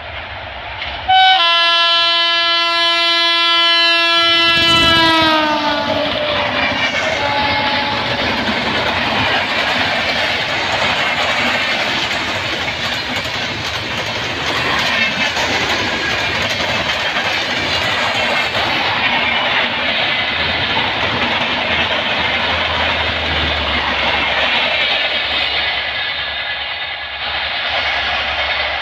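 WAP-7 electric locomotive's horn sounding for about four seconds as the express approaches at speed, its pitch dropping as the locomotive passes. Then the steady wheel-on-rail noise of the passenger coaches running past.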